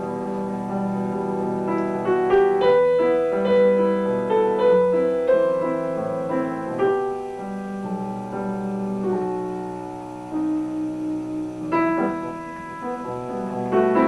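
Piano played live in a slow classical piece: sustained notes and struck chords ringing on, with fresh chords about two seconds in and again near the end.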